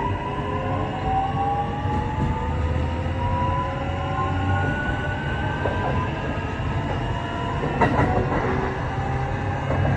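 Kintetsu 8A series electric train pulling away: its Mitsubishi hybrid SiC VVVF inverter and traction motors whine in several tones that rise steadily in pitch, over a low rumble of wheels on rail. A brief clatter of the wheels comes about eight seconds in.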